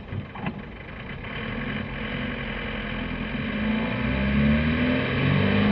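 Car engine idling, then pulling away: it grows louder from about a second and a half in, and its pitch rises and falls from about four seconds in as it accelerates.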